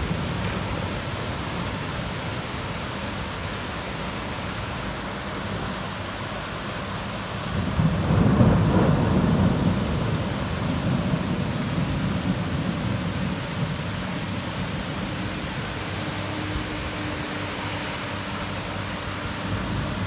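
Heavy rain falling steadily during a thunderstorm, with a low rumble of thunder swelling up about eight seconds in and dying away over several seconds.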